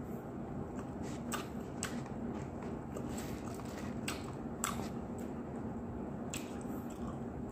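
Chewing of crispy fried chicken, with scattered sharp crackles from the breading at uneven intervals about once a second, over a steady low hum.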